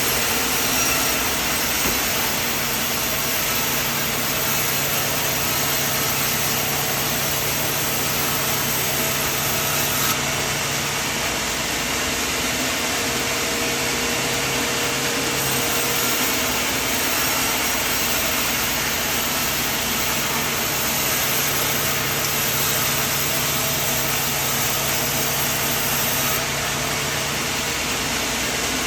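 Portable sawmill running steadily: an engine hum under a constant, noisy rush from the cutting.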